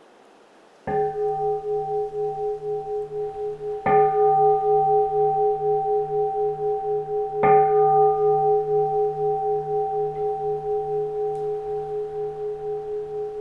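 Keisu, a Japanese Buddhist bowl bell, struck three times about three seconds apart, each strike ringing on in long, pulsing tones that overlap and slowly fade.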